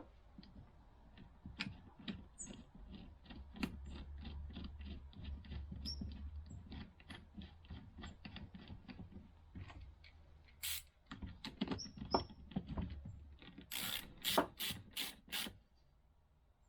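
Rhythmic hand scrubbing or scraping strokes, about three to four a second, then several louder, hissing strokes near the end.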